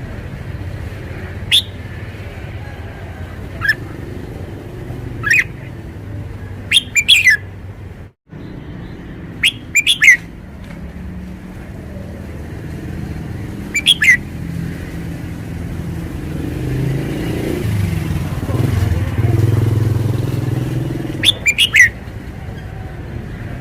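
Red-whiskered bulbul giving short, sharp, falling notes and quick phrases every few seconds. A steady low rumble of traffic or an engine runs underneath and swells for a few seconds in the second half.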